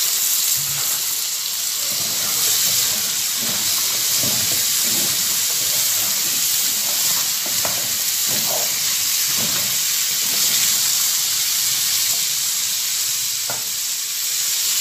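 Freshly added diced radish (mooli) sizzling steadily in hot oil in a frying pan, with the soft scrapes and knocks of a wooden spatula stirring it through the pan.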